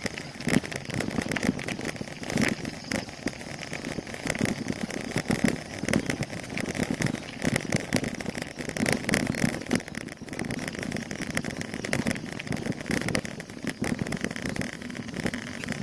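Bicycle riding over an uneven road: a continuous irregular rattling and rumbling from the bike and the mounted recording device jolting.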